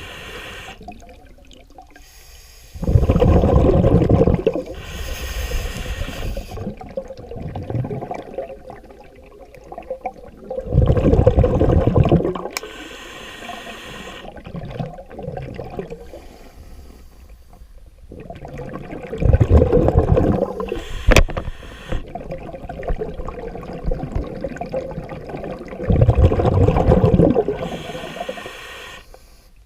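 Scuba diver breathing underwater through a regulator: four loud bubbling exhalations about seven to eight seconds apart, each with a gush of bubbles lasting a second or two, and a short hiss of inhaled air between them. A single sharp click sounds about two-thirds of the way through.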